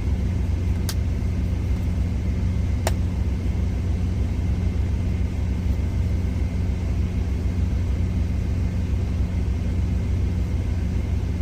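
Steady low hum of an idling semi-truck diesel engine, heard from inside the cab, with two light clicks about one and three seconds in.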